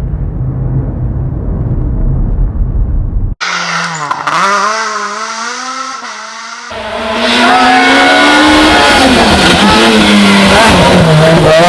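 A low rumble for about three seconds, then rally car engines revving hard, rising and falling in pitch through gear changes. Louder from about two-thirds of the way in, with tyre squeal over the engine.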